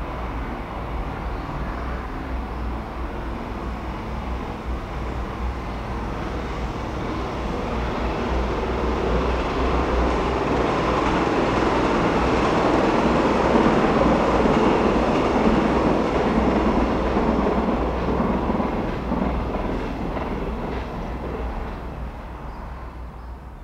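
A train passing on the line: its running noise builds up, is loudest a little past halfway, and fades away.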